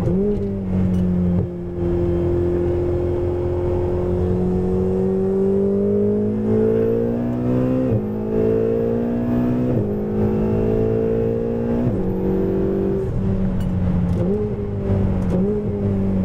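Ferrari 488 GTB's twin-turbo V8 heard from inside the cabin, pulling hard on track with its pitch rising. It steps down sharply three times as it shifts up, then gives two brief rev blips near the end.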